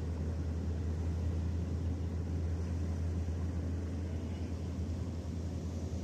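Boat engine running steadily, a constant low rumble.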